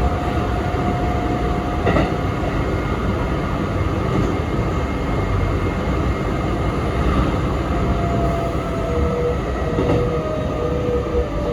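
Interior of a Sanyo Electric Railway 3050 series commuter train running on the line: a steady rumble of wheels on rail, with a few clicks as it passes rail joints. In the second half a faint whine slides down in pitch as the train slows for the next station.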